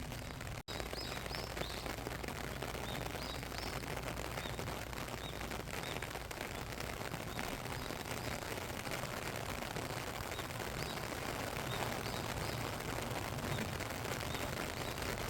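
Steady rain pattering, with a small bird chirping now and then. The sound drops out for an instant about half a second in.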